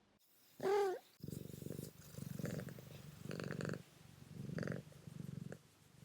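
A long-haired house cat chirps once, then purrs in pulses about a second apart.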